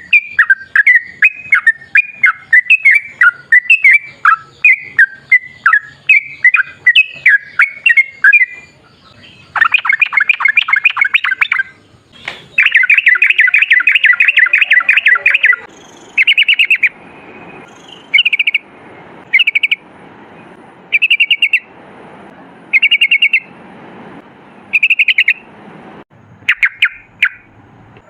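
Yellow-vented bulbul (trucukan) singing: quick bubbling chirps for the first eight seconds or so, then fast rattling trills, the longest about twelve seconds in, followed by short trilled bursts roughly once a second.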